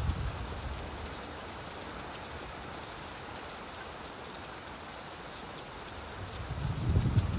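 Steady rain falling on a surface, an even hiss, with a low rumble of thunder swelling near the end.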